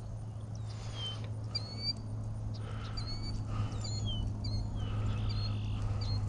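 Birds singing and calling: repeated short high chirps and down-slurred whistles, over a steady low hum.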